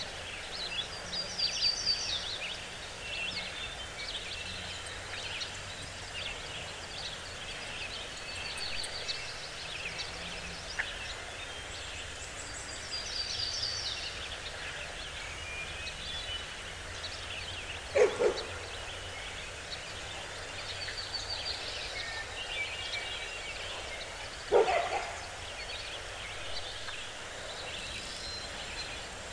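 Forest birds chirping and singing over a steady outdoor background hiss. Twice in the second half, about six seconds apart, a short, loud, lower call cuts in from an animal.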